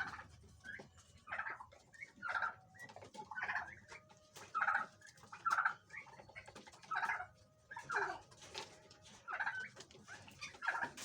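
Captive birds in a pheasant breeding aviary calling over and over, about one short call a second.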